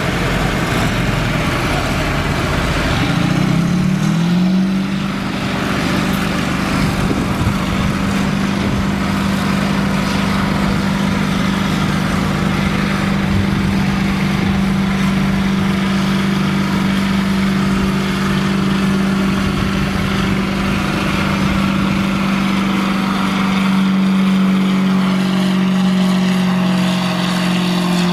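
Naturally aspirated pulling tractor's engine at full throttle under load, its pitch rising over the first few seconds and then holding steady.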